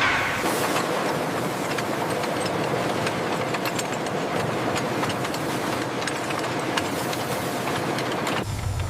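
Industrial machinery running steadily, a dense rattle of many small clicks and ticks over a constant noise. Near the end it cuts off abruptly and a lower hum takes over.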